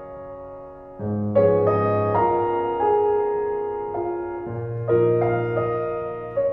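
Background piano music: slow chords, each note struck and then fading.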